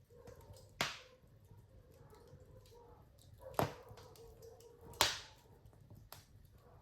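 Wood fire crackling in a fireplace: three sharp pops, the last the loudest, with small ticks between them.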